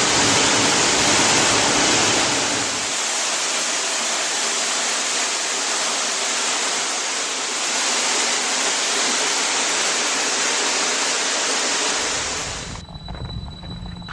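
Waterfall rushing: a loud, steady hiss of falling water that cuts off abruptly near the end.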